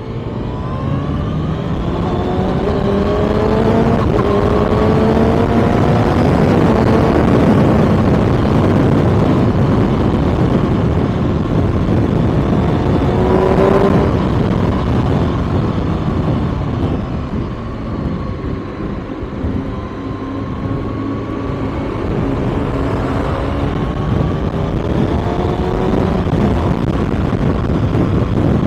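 Kawasaki ZX-6R inline-four sport-bike engine under way. Its note climbs several times and drops back between the climbs, over a steady rush of noise.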